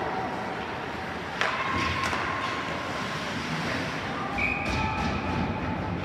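Ice hockey rink during play: a sharp knock of stick, puck or boards about a second and a half in, with smaller knocks later over a steady wash of rink noise. A short high steady tone sounds past the middle.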